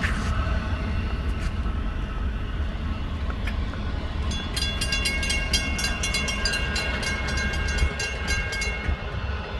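Florida East Coast Railway train rolling past with a steady low rumble. From about four seconds in, high metallic ringing tones and rapid clicks come from the wheels on the rails.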